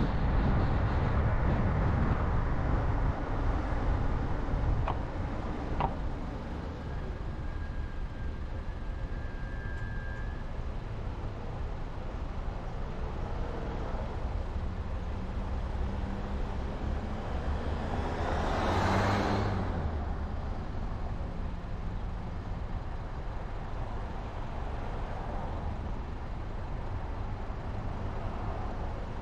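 Car being driven, with steady engine and tyre road noise that is louder for the first few seconds and then settles lower. About two-thirds of the way through, a rushing noise swells up and fades, as of another vehicle passing close by.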